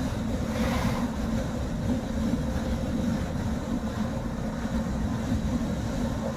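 Steady road and engine rumble inside a moving car's cabin on a wet road, with a brief hissing swell about half a second in.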